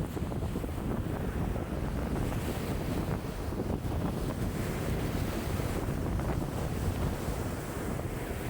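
Lake waves washing in a wind of about 5 m/s, with wind buffeting the microphone as a steady low rumble.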